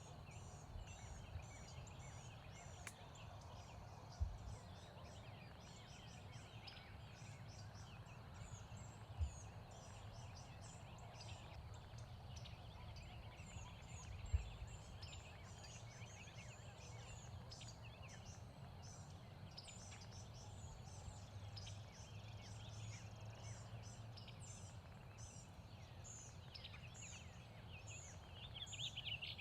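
Faint outdoor ambience of many small birds chirping steadily, over a low hum, with three soft low thumps in the first half.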